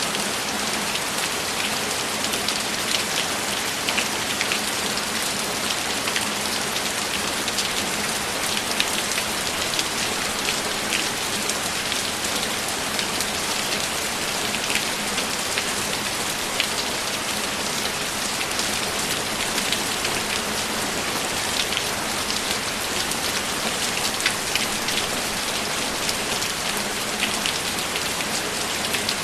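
Steady, even rainfall, with many individual drops ticking sharply against the continuous hiss of the rain.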